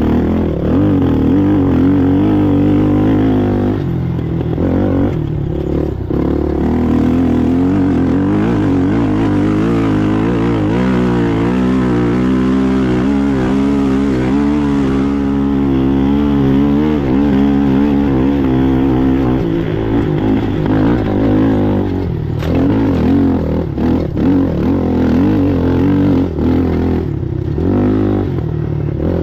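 Polaris Sportsman ATV engine running hard at race pace, revs rising and falling constantly. In the last third come several brief throttle lifts.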